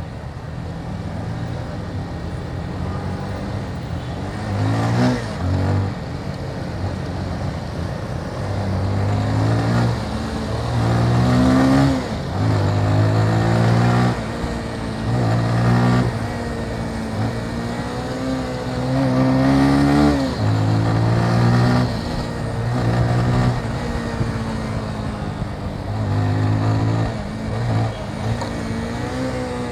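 Motorcycle engine heard from on the bike, accelerating again and again: its pitch climbs with the throttle, then drops back at each shift or roll-off.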